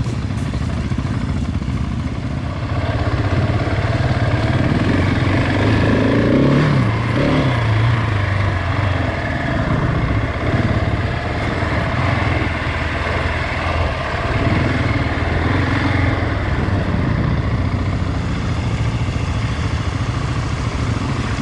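Single-cylinder dual-sport motorcycle engine running while riding, its pitch rising and falling with the throttle about six to eight seconds in.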